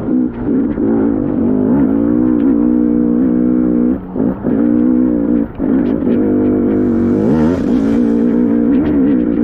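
Two-stroke KTM dirt bike engine running hard on a trail, its note rising and falling with the throttle, with brief throttle chops about four and five and a half seconds in.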